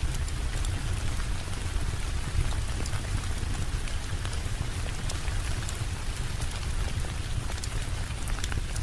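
Steady rain with a deep low rumble, mixed with scattered sharp ticks and pops from a crackling fire.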